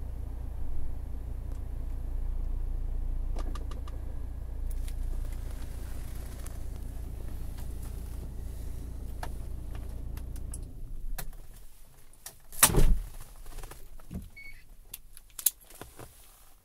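Volkswagen's engine idling with a steady low rumble and a few clicks, then switched off about two thirds of the way through. After it stops come sharp clicks and knocks, one much louder than the rest.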